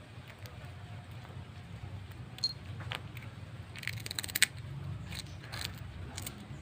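Orange domestic cat chewing a crunchy snack: scattered sharp crunches, thickest about four seconds in.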